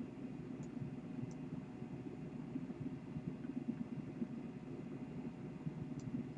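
Low steady background rumble of room noise, with a few faint light clicks.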